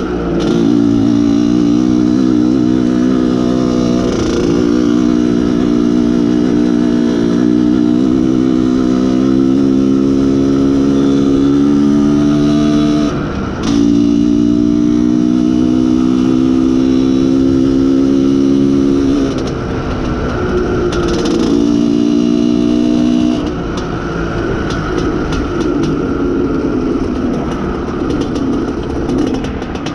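IZh Planeta Sport's single-cylinder two-stroke engine pulling under load as the motorcycle is ridden, its pitch climbing steadily, while the engine is being run in. The pitch drops for a gear change about 13 seconds in and climbs again. After about 19 seconds the throttle eases off, with a short blip a couple of seconds later, and the engine runs lower and rougher to the end.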